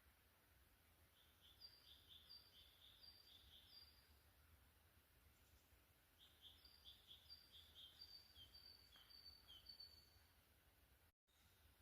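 A songbird singing faintly: two short phrases of quickly repeated high two-note figures, the first about a second in and the second about six seconds in.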